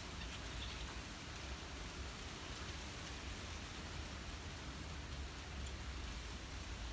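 Gentle breeze through trees: a steady rustling hiss over a low rumble.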